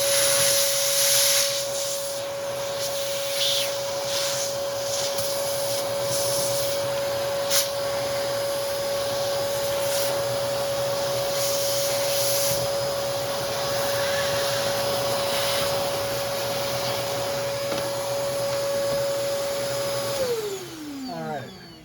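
Hoover Commercial PortaPower CH30000 vacuum running with a steady high motor whine and rushing air as it sucks dust out of a motor housing. The airflow surges now and then, and there is a single sharp click about seven and a half seconds in. About twenty seconds in it is switched off, and the whine falls in pitch as the motor spins down.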